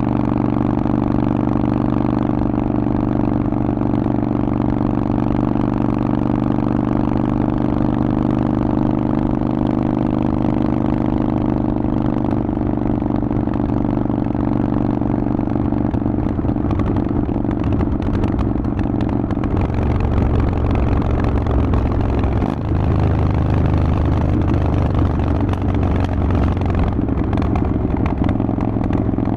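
Harley-Davidson Forty-Eight's air-cooled 1200 cc V-twin running loud through a Vance & Hines exhaust, holding a steady note under way. The note shifts in the second half, with a brief drop in loudness about three-quarters of the way through.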